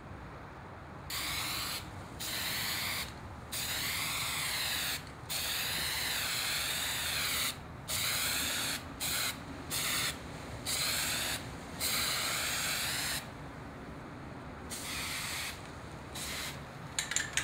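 Aerosol spray-paint can hissing in about a dozen separate bursts, some short and some a couple of seconds long, as a word is sprayed on in black paint.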